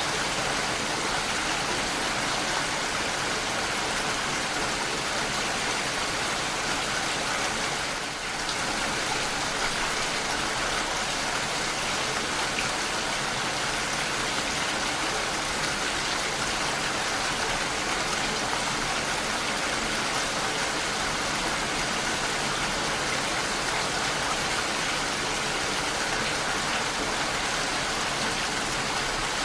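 Steady rain falling, an even hiss of drops with no pauses, dipping briefly in level about eight seconds in.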